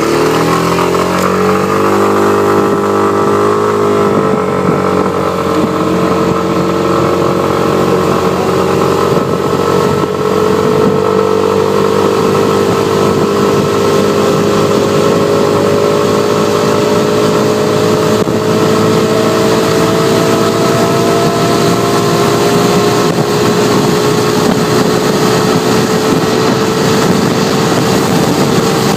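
Yamaha XMAX maxi-scooter's single-cylinder engine at full throttle under a two-person load. The revs climb quickly over the first four seconds, then hold nearly steady as the CVT lets the speed build, while a fainter whine slowly rises in pitch.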